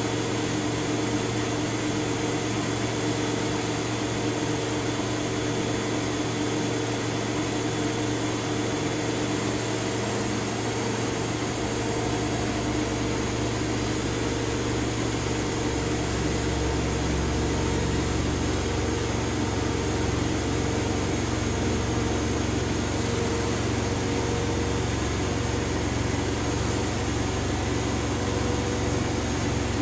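Front-loading washing machine running, a steady mechanical hum; a low rumble swells about halfway through and stays.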